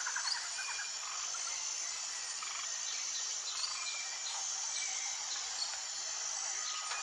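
Natural outdoor ambience: a steady high-pitched insect drone with scattered short bird chirps. A rapid pulsing trill stops just after the start.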